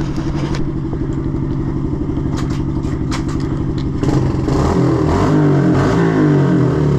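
A 110cc pit bike's single-cylinder four-stroke engine running at a steady speed. About four seconds in it gets louder, and its pitch rises and falls as the throttle is worked.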